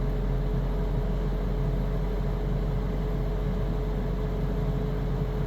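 18k Chill Cube air conditioner running with its compressor ramping up: a steady hum of fan and compressor with one held mid-pitched tone above a strong low drone.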